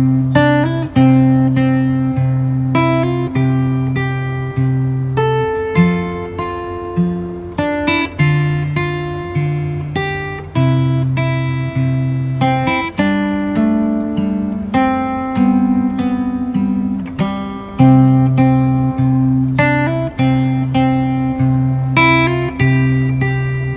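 Background music: acoustic guitar plucking a steady, repeating pattern of notes.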